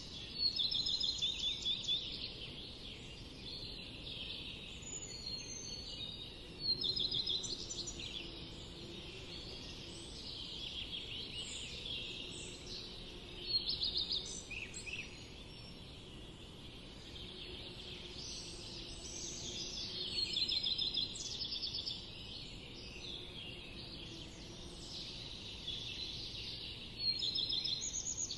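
Small birds chirping and trilling in a busy chorus, with louder bursts of rapid trills about every six or seven seconds.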